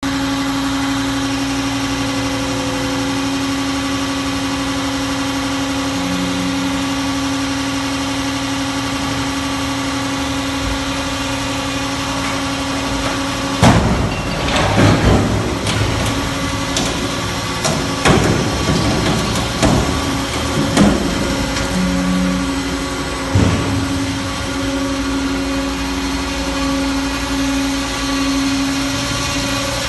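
McIntyre 1300 Boss engine cracker running with a steady mechanical hum, then, from about halfway through, a run of about seven loud cracks and metal bangs spread over roughly ten seconds as it breaks up a scrap engine.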